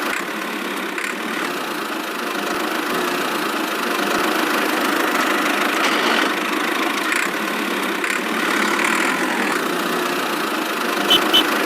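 A small engine or motor running steadily, an even hum with no change in speed.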